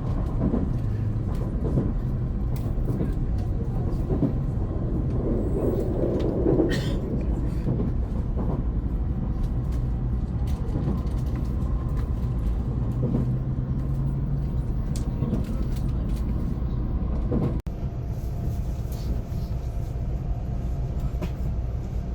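Steady low rumble of a Shinkansen bullet train running, heard inside a passenger car, with faint ticks and one brief dropout.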